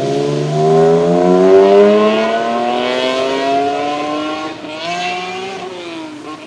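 Tuned BMW 1M's twin-turbo straight-six accelerating hard, its note climbing steadily for several seconds. There is a short break about five seconds in, like a gear change, then a lower note that falls and fades away.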